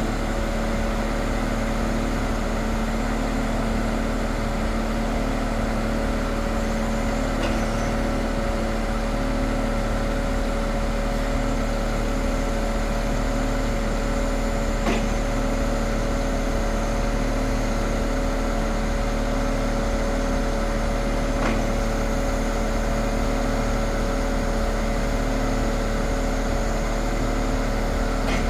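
Scania R500 truck's engine running steadily at a constant speed, with an even whine over it and a few faint ticks.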